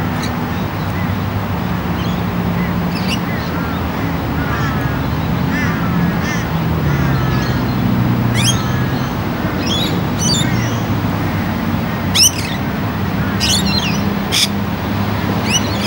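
Birds calling in short, sharp chirps and squawks that sweep down in pitch, more often in the second half, over a steady low engine hum.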